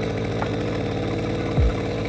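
Small motorcycle engine running steadily under way, with a short low thump near the end.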